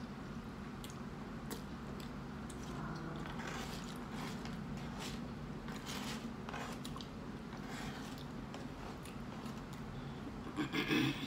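Close-miked chewing and wet smacking of a mouthful of burrito, with small scattered mouth clicks and a louder burst of mouth noise near the end. A steady low hum runs underneath.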